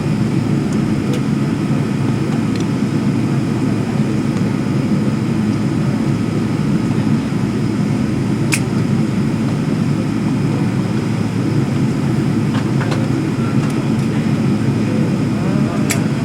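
Steady low drone inside an airliner's passenger cabin as it taxis after landing, engines and air conditioning running, with a sharp click about halfway through and another near the end.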